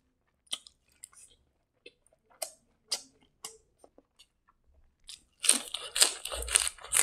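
Close-up mouth sounds of a person eating with his hand: scattered wet clicks and smacks while chewing rice and boiled egg at first, then a dense run of chewing and lip smacks from about five seconds in as he bites into a mouthful wrapped in fresh greens.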